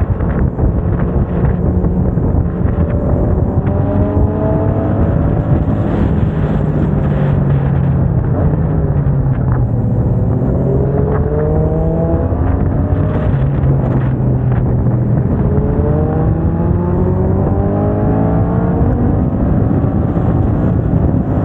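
Yamaha MT-07's parallel-twin engine through a MIVV aftermarket exhaust, running under load with its pitch rising several times as the bike accelerates, over wind rush on the microphone.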